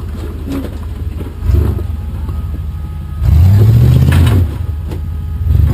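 Rock crawler's engine running at low revs, with a short throttle blip about one and a half seconds in, a longer, louder rev that rises and falls over a second or so midway, and another blip at the end, as the vehicle is worked up a rock obstacle.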